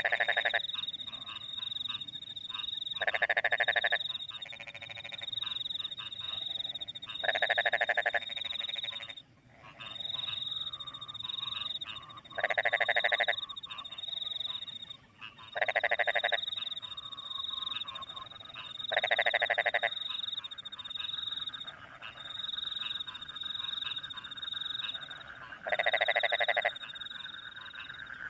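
Rice-field frogs calling after rain: loud croaking calls of about a second each, coming every three to five seconds, over a continuous high, pulsing chirp of crickets. A fainter, lower frog chorus trills underneath in the second half.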